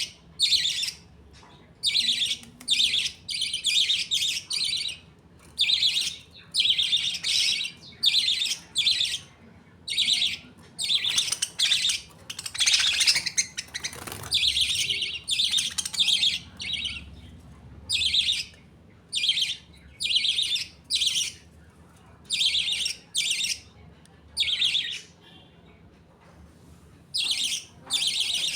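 Budgerigars in a colony calling: quick, short chirps and chattering in bursts, one after another, with brief gaps between.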